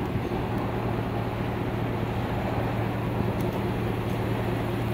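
2014 GMC Sierra 2500HD pickup's engine running steadily, a low, even drone that holds without change.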